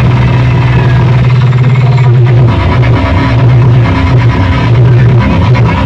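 Loud music played through a large DJ sound-box rig, dominated by heavy bass that changes from a steady drone to a pulsing beat about two and a half seconds in.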